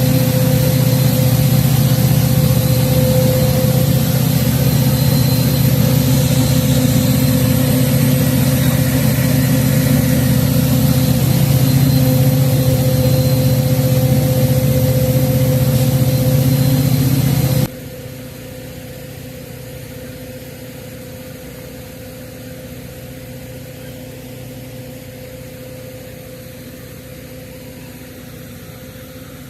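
Vehicle engine running steadily with a constant hum. About eighteen seconds in it cuts off suddenly, leaving a much quieter steady hum.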